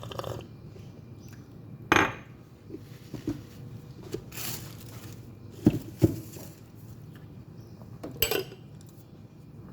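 Dishes and cutlery clinking and knocking against each other: a few sharp clinks, the loudest about two seconds in, a close pair near the middle and another near the end, with a brief hiss between them.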